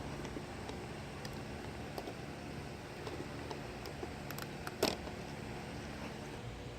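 G-scale model train running on a garden railroad: a steady low motor hum with light clicking, and one sharper click about five seconds in.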